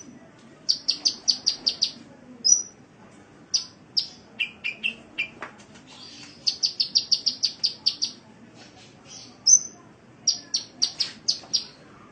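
Sunbird (Indonesian 'kolibri') singing: quick runs of sharp, high chirps, several of them rapid trills of six to eight notes, with a few lower notes about halfway through.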